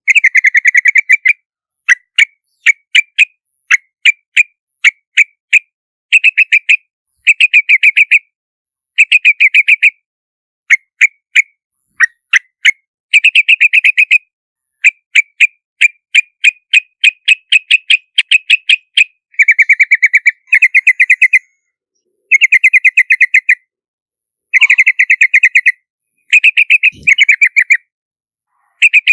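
Yellow-vented bulbul calling: short, clipped notes, spaced singly at first, then in fast chattering runs of about a second each, with dead-silent gaps between the runs.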